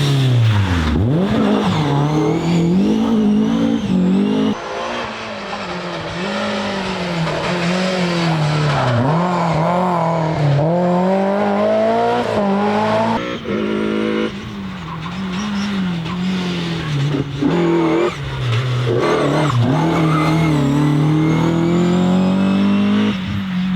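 BMW E30 M3 with its S14 four-cylinder engine driven hard, revving up and then dropping in pitch again and again as it lifts and shifts between corners. The sound changes abruptly a few times, as from one pass to the next.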